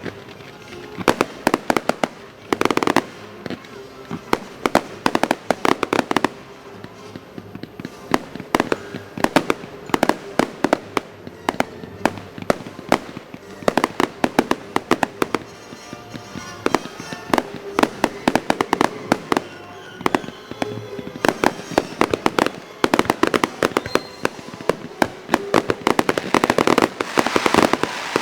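Fireworks display: shells bursting in rapid volleys, many sharp bangs in quick succession over continuous crackling.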